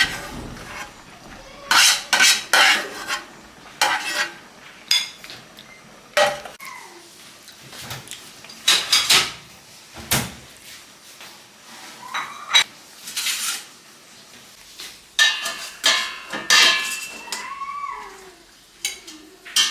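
Dishes and utensils clinking and knocking in irregular clusters, the sound of tableware being handled at a meal or in kitchen work.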